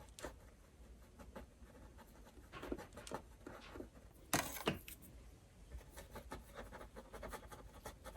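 Faint scratching of a small, nearly dry paintbrush stroked and dabbed across a canvas in dry brushing, with a louder pair of strokes about four and a half seconds in.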